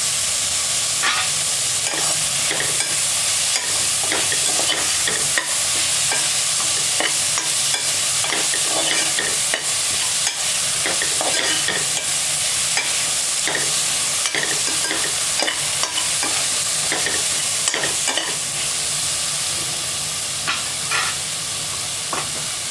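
Onions, tomatoes and green chillies frying in oil in a metal pot, a steady sizzle with frequent scrapes and clicks of a spatula stirring them against the pot.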